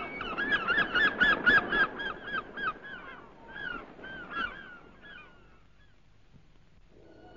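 A bird calling in a fast run of short, repeated calls, about five a second, that become sparser and fade away after about five seconds.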